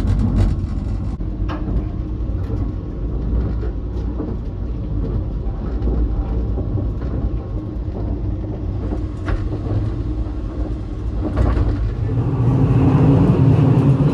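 Steady low rumble of a KTX-Cheongryong high-speed train heard from inside the carriage while it runs, with a few faint light ticks. The noise grows louder about twelve seconds in.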